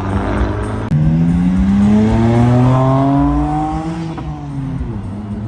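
A car's engine accelerating hard, its pitch rising steadily for about three seconds from about a second in, then falling away.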